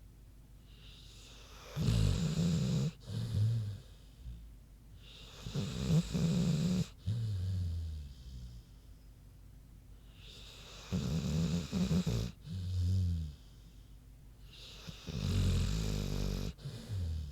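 An American bulldog snoring in deep sleep: four rasping snores, each followed by a shorter, lower one that falls in pitch.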